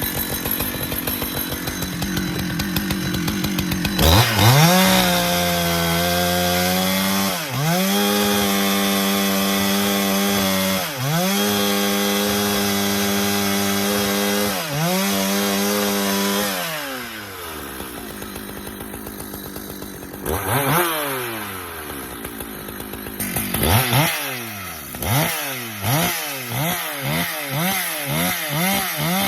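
Husqvarna chainsaw noodling pecan rounds. It runs low, then goes to full throttle about four seconds in and holds there, dipping briefly in pitch three times. It drops back to idle about two-thirds of the way through, is revved once, then rises and falls in a series of short revs near the end.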